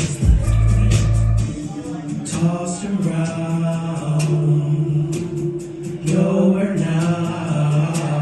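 Live pop song over a PA, with held sung notes over the backing track; the heavy bass beat drops out about a second and a half in.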